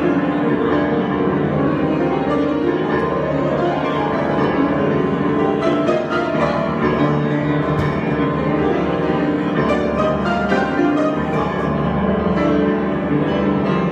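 Improvised keyboard music: dense, layered sustained chords played steadily, with no voice.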